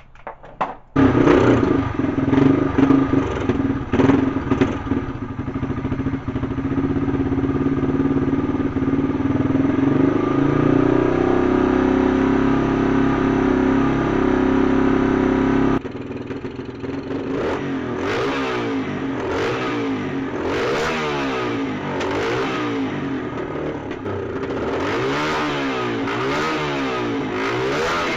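2002 Yamaha TT-R dirt bike's single-cylinder four-stroke engine firing up about a second in after sitting unused for years, revved hard at first and then running steadily. From about halfway the engine note drops and rises and falls over and over as the throttle is worked.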